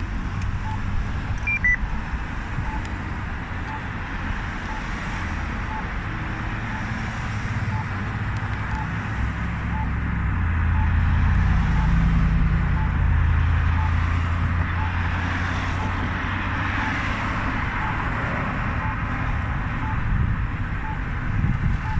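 Low road-and-wind rumble while riding, with a faint, even tick about twice a second. The rumble swells louder for a few seconds around the middle, as a vehicle passing would.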